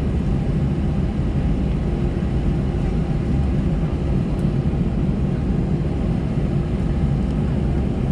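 Steady low cabin drone of an Airbus A320-214 on the ground, its CFM56 engines idling, with a faint steady hum running through it.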